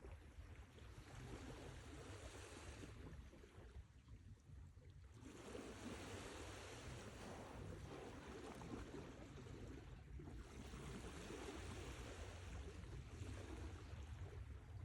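Sea waves surging and washing over a steady low rumble, faint: one wash swells and falls back about four seconds in, then a fuller wash rises about five seconds in and carries on.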